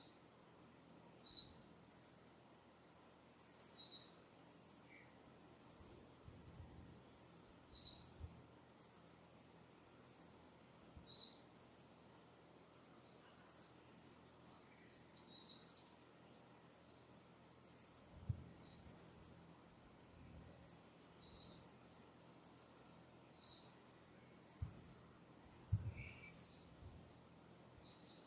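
Faint, distant birdsong: short, high chirps repeated about once a second, some with a lower second note. A few soft low thumps, the loudest near the end.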